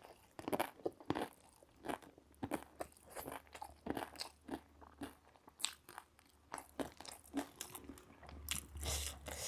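A person biting and chewing crunchy food, a run of short irregular crunches at a few a second.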